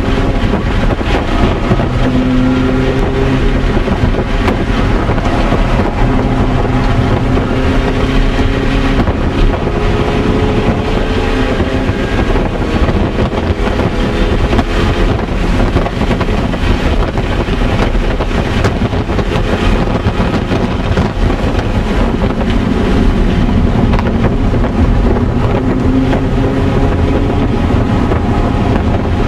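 2005 MINI Cooper S's supercharged four-cylinder engine running hard on a race track, heard from inside the cabin: its pitch climbs and falls again and again as it pulls through the gears, over a steady rush of wind and road noise.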